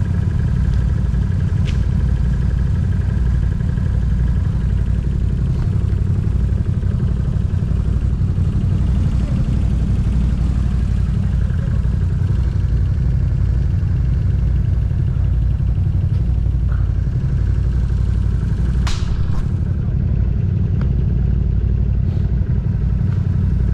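ATV engine running steadily at low revs, with a sharp clattering knock about 19 seconds in and a fainter click near the start.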